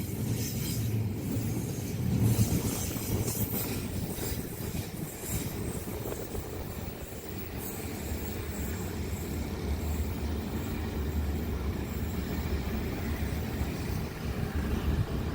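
A passing train: its wheels knock repeatedly over the rails for the first few seconds, then settle into a steady low rumble.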